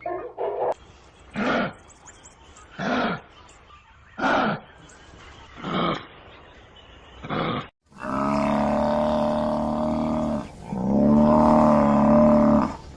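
Animal calls: five short grunting calls about a second and a half apart, then, after a sudden change, two long, steady, deep calls of about two seconds each.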